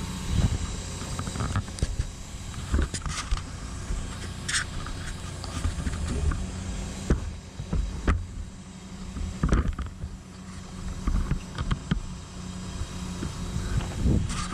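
Cat 314E excavator's diesel engine running steadily, with irregular clanks, knocks and scraping as the machine works rock and soil.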